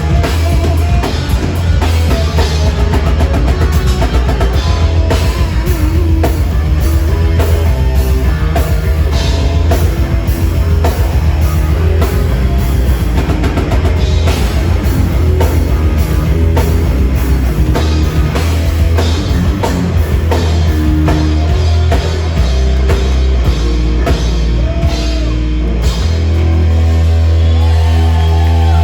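Live heavy metal band playing loud: drum kit, distorted guitars and bass together. About three seconds before the end the drum hits stop and a held chord rings on.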